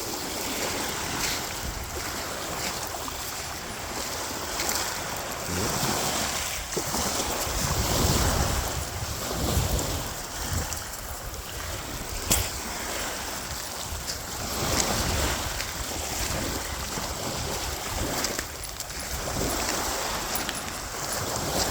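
Small waves breaking and washing on a beach, the surf rising and easing every few seconds, with wind buffeting the microphone.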